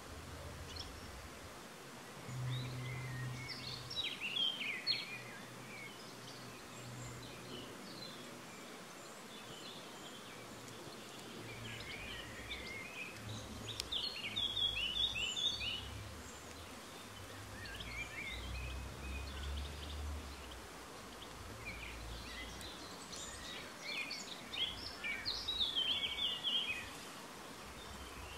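Songbird singing outdoors: three short, quick, chirpy song phrases about ten seconds apart, over steady background hiss and a low uneven rumble.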